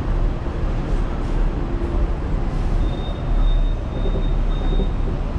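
Hong Kong double-decker tram running along its track with a steady low rumble and rattle. From about three seconds in, a thin high whine comes and goes in short pulses for about two seconds.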